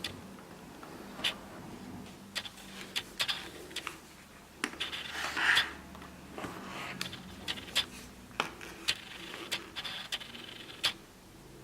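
Handling noises: irregular sharp clicks and light knocks, with a short scraping rustle about five seconds in.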